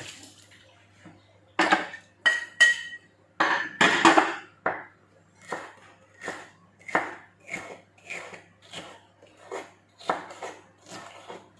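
A few loud clatters and clinks of kitchen utensils and dishes, then a knife chopping steadily on a cutting board, about two strokes a second.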